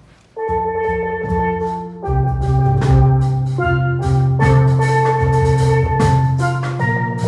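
Steel pan band starting to play about half a second in: ringing struck pan notes over a low bass line, with drum beats.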